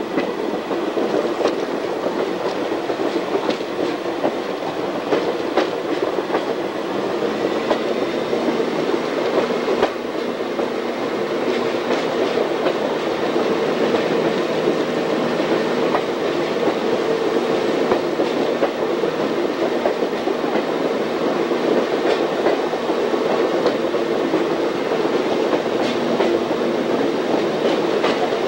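A moving train heard from on board: the steady rumble of wheels rolling on the rails, with irregular clicks as the wheels pass over rail joints.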